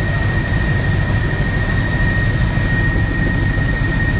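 Helicopter cabin noise: a steady, loud low rumble from the rotor and engine, with a constant high-pitched whine over it.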